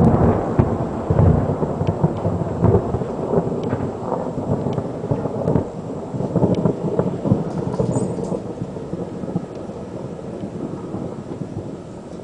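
Thundersnow: thunder rumbling after a close, very bright lightning flash. It is loudest in the first few seconds, with sharp cracks, then slowly fades.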